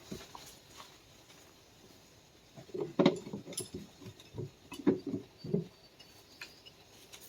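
Metal tools and parts clinking and knocking: a quiet start, then a cluster of short sharp clanks and clicks from about three to six seconds in.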